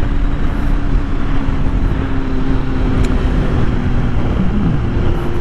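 Sport motorcycle being ridden, heard through a helmet or body mic with heavy wind rumble; the engine holds a steady note that slowly sags, with a short rise and fall in pitch near the end.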